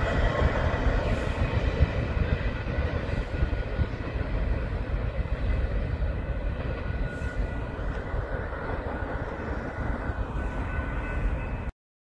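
Double-stack container freight train's cars rolling past and away on the rails: a steady rumble with several steady high-pitched tones over it, slowly fading. It cuts off suddenly near the end.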